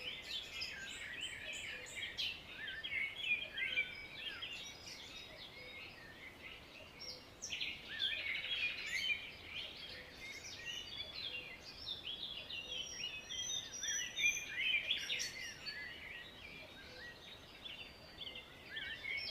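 Many songbirds chirping and singing at once, short overlapping calls and warbles without a break, over a faint steady hiss.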